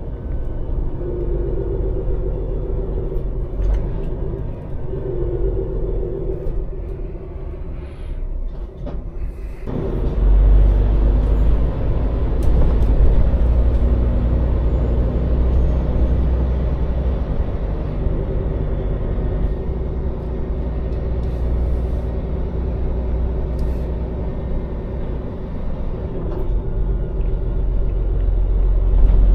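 Scania lorry's diesel engine and road noise, a steady low rumble that grows suddenly much heavier about ten seconds in, as under load pulling away.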